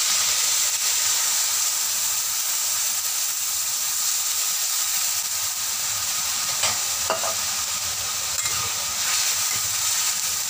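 Water poured into a hot steel wok of fried chicken pieces and oil, sizzling steadily. A metal spatula stirs through the wok, with a couple of short clinks about seven seconds in.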